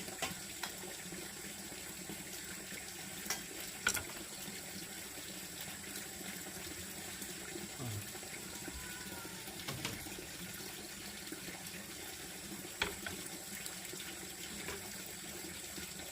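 Water running steadily, like a tap or pipe pouring, with a few light knocks or clicks, the strongest about 4 seconds in and near 13 seconds.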